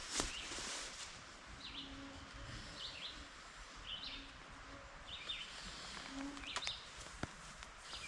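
A bird giving a short chirp over and over, about once a second, over a steady hiss of forest background. A sharp click just after the start.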